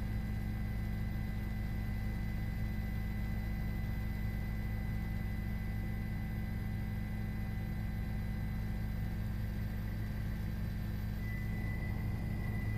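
Steady vehicle drone with a thin, constant high whine.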